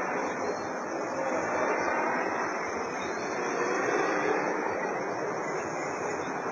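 XAircraft X450 quadcopter's electric motors and propellers buzzing steadily in flight, the pitch wavering slightly as the rotor speeds change.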